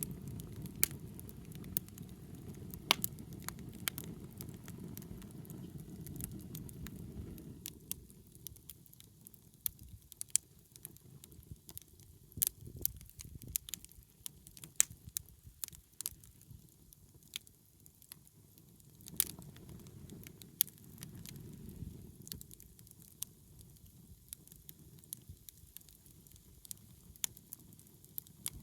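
Wood bonfire crackling, with irregular sharp pops and snaps. Underneath, a low rumble fades about eight seconds in and swells again for a few seconds after the twenty-second mark.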